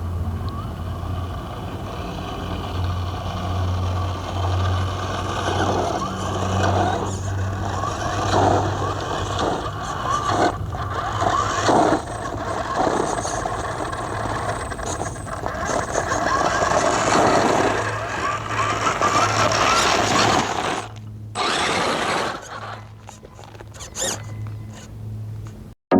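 Redcat Gen 8 1/10 RC crawler driving, its brushless motor and geared drivetrain whining and rising and falling in pitch with the throttle, with knocks from the truck over the ground. The sound drops away after about 21 seconds, leaving a few short bursts.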